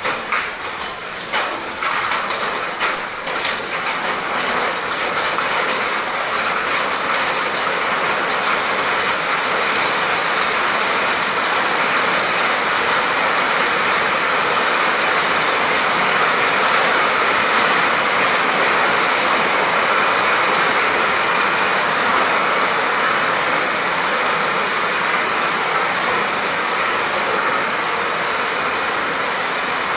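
Rain falling steadily. A few separate drops tap in the first couple of seconds while it swells, then it settles into an even hiss.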